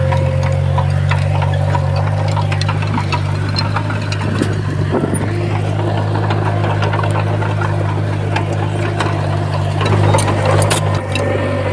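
Komatsu bulldozer's diesel engine running steadily under load, with a steady whine above it and scattered metallic clicks and clanks.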